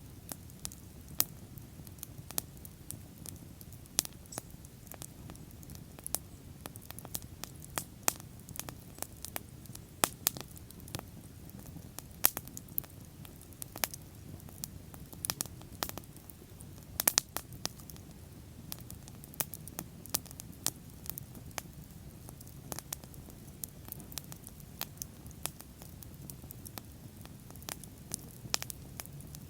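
Wood bonfire burning, with irregular sharp crackles and pops, often several a second, over a steady low rush of the flames.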